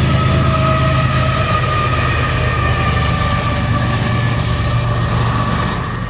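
Train rolling past: a steady low rumble of the wheels on the rails, with a faint high squeal that slides slightly down in pitch. The sound fades near the end.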